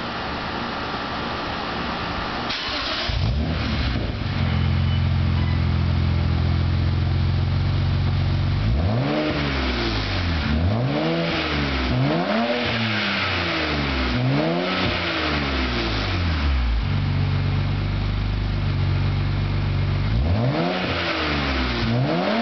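BMW 335i's turbocharged inline-six running through a Magnaflow exhaust with the resonators deleted and no X-pipe. It catches and starts about three seconds in, settles to a steady idle, and is then blipped in four quick revs that rise and fall in the middle and twice more near the end.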